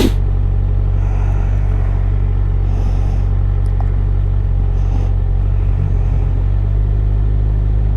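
Motorcycle engine idling steadily while stopped in traffic.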